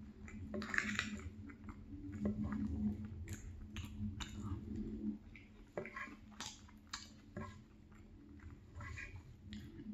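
Close-up chewing of a mouthful of creamy salmon pie with flaky crust, with irregular wet mouth clicks and smacks.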